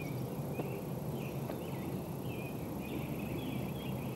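Songbirds chirping and warbling in short repeated phrases, over a steady low hum.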